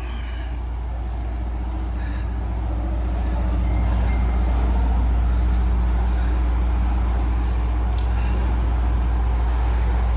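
A heavy engine's steady low drone, growing louder over the first four seconds and then holding.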